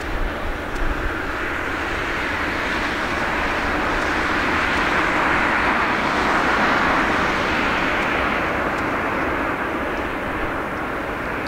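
Jet airliner coming in to land, its engine noise swelling to a peak about halfway through and then fading as it passes. Gusts of wind buffet the microphone underneath.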